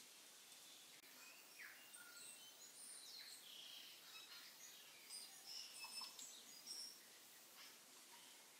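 Faint birds chirping: many short, high chirps and whistles coming and going over a low hiss, busiest about two-thirds of the way in.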